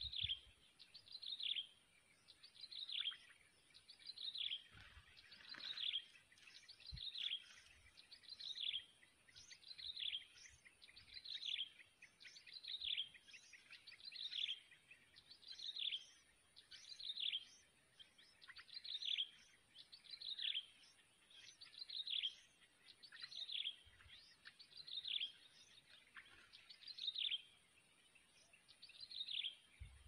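A bird repeating a short, sharp call note that drops in pitch, about once every second and a half, with a faint steady high-pitched tone underneath.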